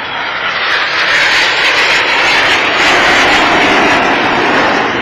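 Jet noise from a pair of Red Arrows BAE Hawk jets, each with a single Adour turbofan, passing low in front of the crowd. The noise builds to its loudest about three seconds in and eases slightly near the end.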